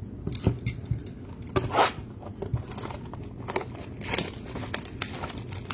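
Plastic trading-card pack wrapper crinkling and tearing in irregular bursts, loudest about two seconds in.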